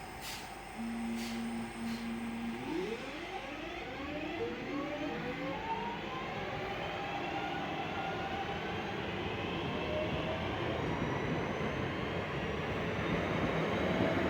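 Two coupled Class 323 electric multiple units pulling away and accelerating. A steady hum comes first; then, after about two and a half seconds, the traction motors give a whine of several tones that climbs steadily in pitch. The running noise grows gradually louder.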